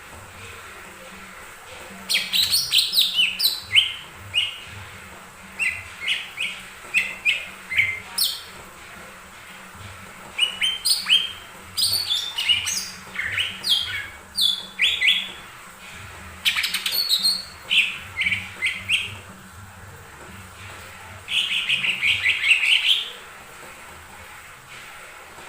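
Cucak ijo mini, a small leafbird, singing in bursts of quick, high chirping and whistled notes, with gaps of a second or two between phrases. Near the end comes a fast trill lasting about two seconds.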